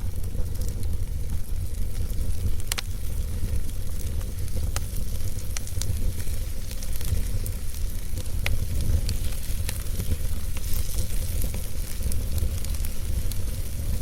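Wood fire burning in a fireplace: a steady low rumble and hiss of flames with scattered sharp crackles and pops from the burning logs.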